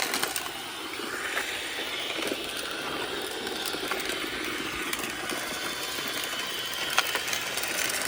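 iRobot Roomba 671 robot vacuum running over a driveway, its vacuum motor and brushes whirring steadily as it sweeps up debris fallen from trees, with a sharp click about seven seconds in.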